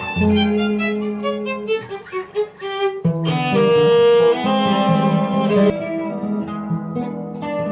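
Violin and acoustic guitar improvising together, the violin holding and sliding between sustained notes over the guitar. The music breaks off sharply about three seconds in and a new, fuller phrase begins.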